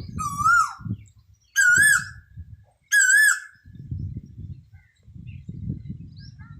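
A bird calling three times, each call a loud, wavering, half-second note, about a second and a quarter apart. A low uneven rumble runs underneath.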